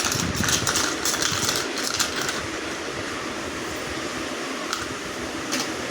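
A young child imitating a mixer grinder with her mouth: a steady whirring, grinding noise, choppier for the first two seconds and then even.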